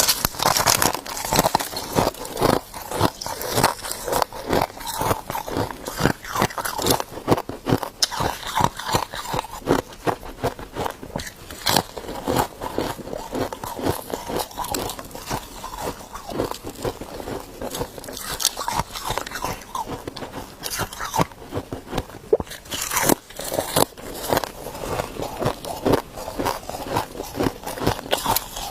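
Ice being bitten and chewed up close: a continuous stream of sharp, crisp crunches and cracks, with louder clusters of bites every few seconds.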